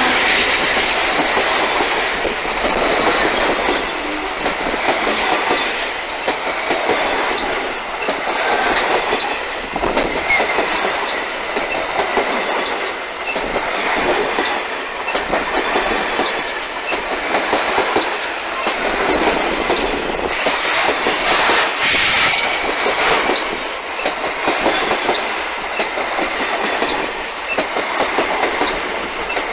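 Freight train grain hopper wagons rolling past close by: steel wheels clattering and rumbling on the rails in a continuous run of clicks. There is a louder stretch of wheel noise about three-quarters of the way through.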